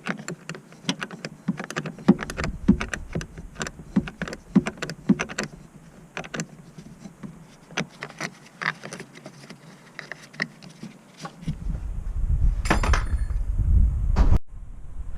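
Irregular metallic clicks, clinks and knocks of tools and parts being handled while working on a car, with a low rumble under them twice, the second stretch loudest and ending abruptly near the end.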